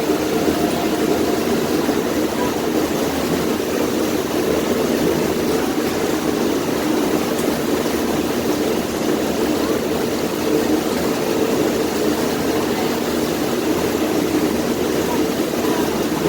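A passenger boat's engine running steadily under way, a loud, even drone heard from the back of the boat near the engine, with water noise.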